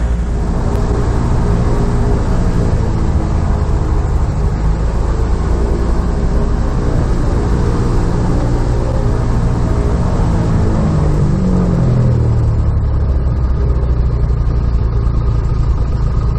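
Piper PA-18 Super Cub's piston engine and propeller running steadily, then throttled back with a falling pitch about two-thirds of the way through, settling into a lower, steady run.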